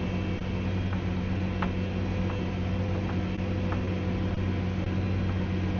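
Tractor engine running steadily under load, a low even drone with a few faint ticks.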